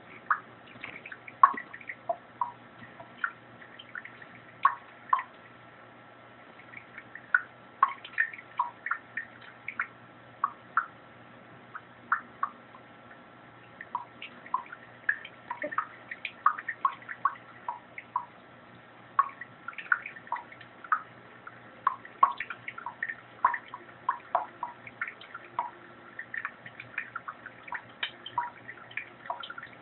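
Water splashing and dripping in a sink as a budgie bathes in it: many short, irregular splashes with a couple of brief lulls.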